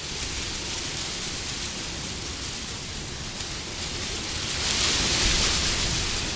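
Steady wind noise that swells into a louder, hissing gust about four and a half seconds in and then eases off.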